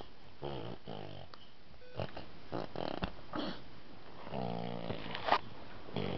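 A young child imitating a car engine with his voice, making buzzing 'brum' sounds in several short bursts.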